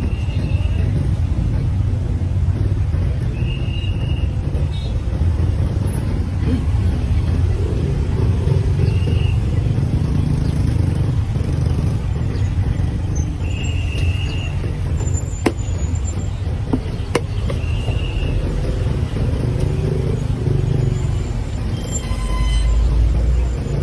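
Steady low rumble like road traffic, with a short high tone sounding about five times and two sharp clicks around the middle.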